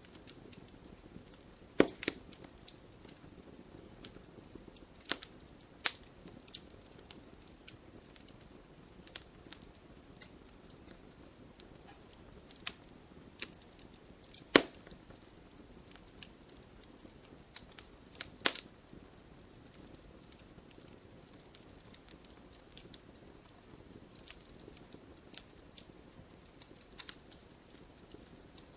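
Wood fire burning in a fireplace: a soft low hiss of flames with irregular sharp crackles and pops, a few loud snaps standing out among them.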